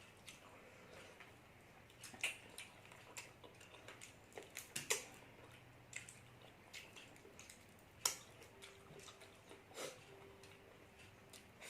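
Faint eating sounds: irregular small clicks and mouth smacks of chewing, with a few sharper clicks about two, five and eight seconds in.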